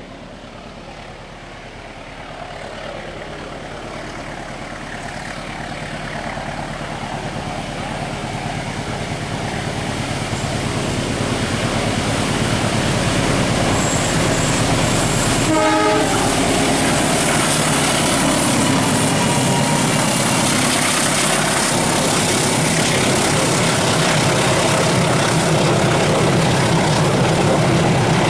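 Long passenger train approaching, growing steadily louder for about twelve seconds, then passing close with the continuous rumble and clatter of its wheels on the rails. A short horn blast sounds about halfway through.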